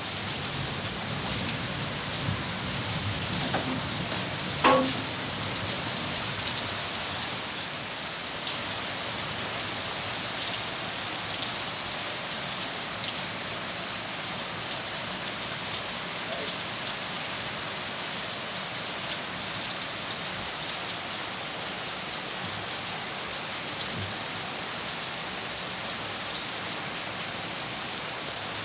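Heavy rain falling steadily, a dense even hiss of drops with fine patters. About five seconds in, a single sharp knock with a short ring cuts through.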